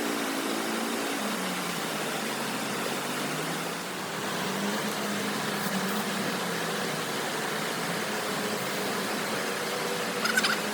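Steady rush of river water, with a faint low hum that slowly wavers in pitch and a brief sharp sound near the end.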